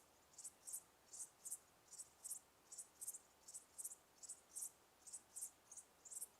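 Cricket chirping steadily: short, high chirps repeating about two to three times a second, often in pairs.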